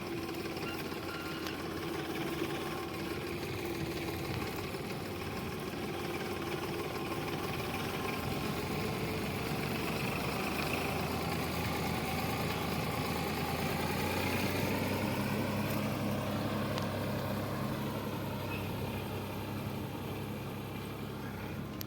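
Sonalika DI 745 tractor's diesel engine running continuously, its note wandering a little before settling steadier in the latter part.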